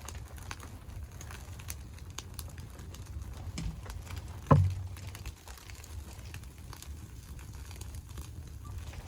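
Wood fire crackling with scattered small clicks over a steady low rumble, and one heavy thump about halfway through.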